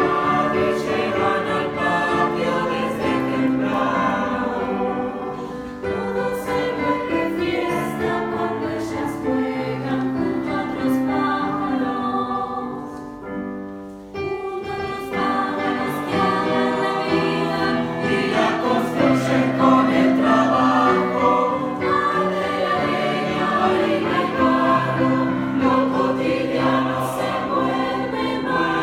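Youth choir singing in parts, with full chords. The voices die away briefly about halfway through, then come back in louder.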